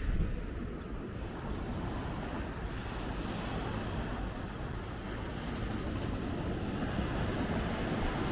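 Wind buffeting the microphone over the steady rush of sea surf, easing a little near the start and slowly building again.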